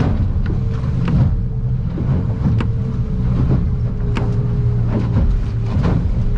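Outboard engine of an aluminum Stabicraft 2050 Supercab running steadily under way, heard from inside the cab. Sharp knocks and slaps come at irregular times as the hull bounces through rough chop.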